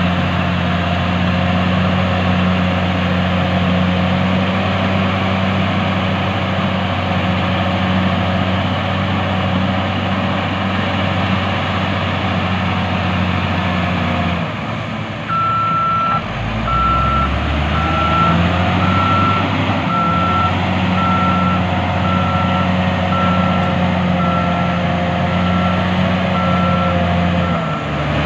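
Diesel engine of heavy earthmoving machinery running steadily with a deep hum. About halfway through, a backup alarm starts beeping at an even pace, roughly one and a half beeps a second, over the engine.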